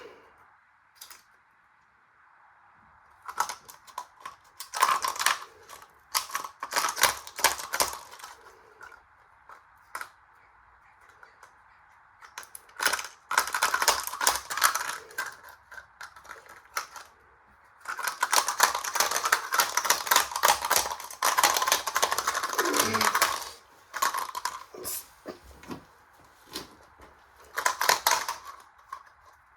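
Washing machine with its counterweight removed, running on a speed controller with a coin loose in the drum: a steady motor whine under repeated stretches of hard rattling and clattering as the unbalanced machine shakes and the coin bounces. Near the middle of the longest rattle a falling tone is heard.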